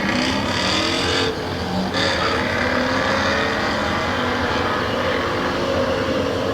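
Car engines revving hard during a drag race, with a short drop in level about a second and a half in.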